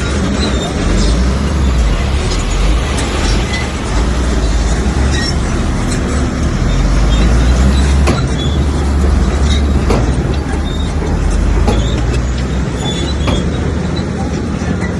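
Heavy earthmoving machinery's diesel engine running under load with a deep, steady rumble, and a few sharp knocks partway through.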